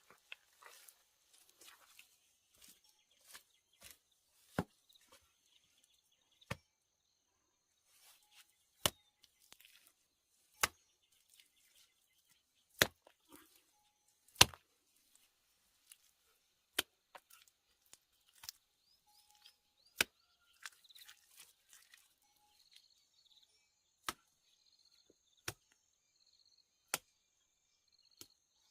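Wood being chopped with a blade: a sharp knock every one and a half to two seconds, with softer taps between, and a faint high insect buzz behind.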